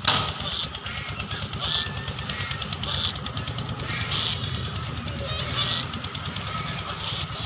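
A motor running steadily with an even, fast pulse, with birds calling over it every second or so.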